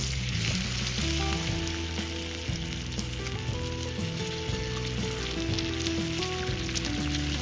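Food frying in a pan, a steady sizzle with fine crackling, under background music with a slow melody.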